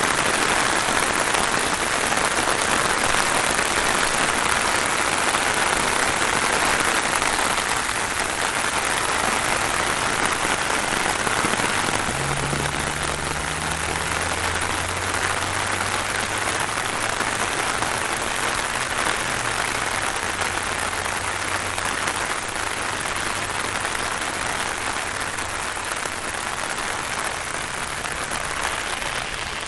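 Rain falling steadily, an even hiss throughout. A low hum joins in about twelve seconds in and fades out some eight seconds later.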